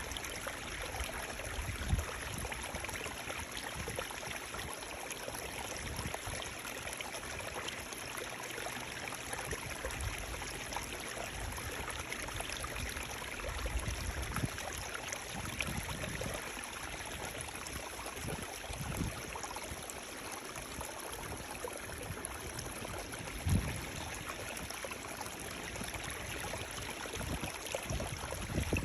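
Running water flowing steadily, an even rushing and burbling, with a few brief low thumps.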